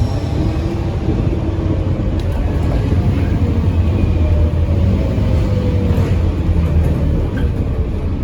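Scania N230UD OmniCity double-decker bus engine running steadily under load, a deep drone with a faint whine that rises early on and then slowly falls away.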